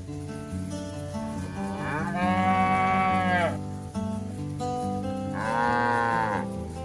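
A cow mooing twice, each moo a second or more long and dropping in pitch as it ends, over background music.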